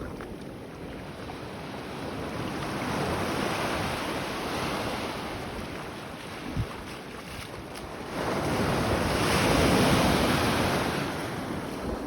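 Baltic Sea waves washing on the shore, with wind on the microphone. A louder wash of surf builds about eight seconds in and eases off near the end.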